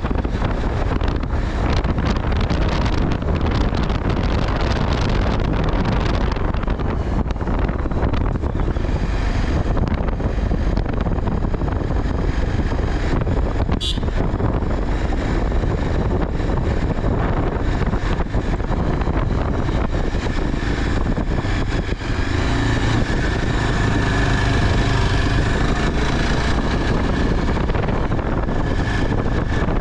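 Wind rushing and buffeting over the microphone during a ride, with the steady noise of a running vehicle engine underneath that grows more distinct past the two-thirds mark. A brief high beep sounds about halfway through.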